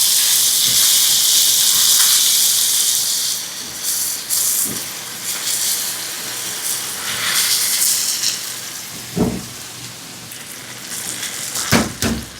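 Potatoes, onion and tomato frying in olive oil in a pan: a loud, steady sizzle that drops and turns patchy after about three and a half seconds. Two knocks come near the end.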